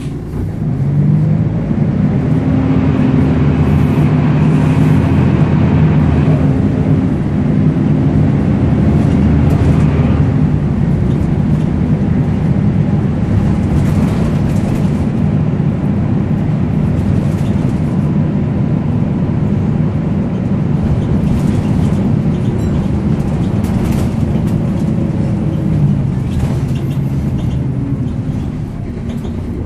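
Volvo B10BLE bus engine running under load. The engine note rises about a second in and drops back near the end. Over it sits the screechy, hoover-like whine of the bus's cooling fan.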